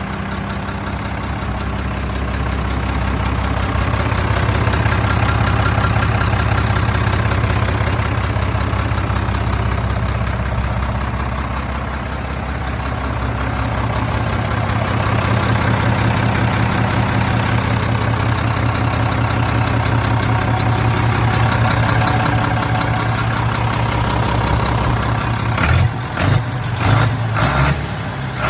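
Fendt 611 LS tractor's diesel engine running steadily. Near the end the sound turns uneven, with several short surges.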